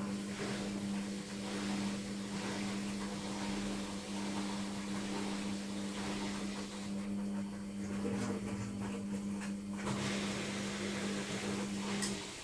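LOGIK washing machine in its final spin, the drum turning fast with a steady motor hum and a rushing noise. The hum cuts off shortly before the end and the sound drops.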